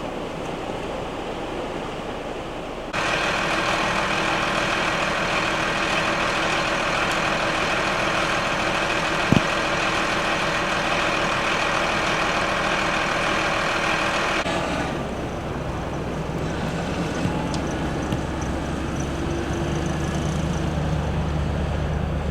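Wind noise with a steady engine hum running under it. The sound changes abruptly about three seconds in and again about halfway through.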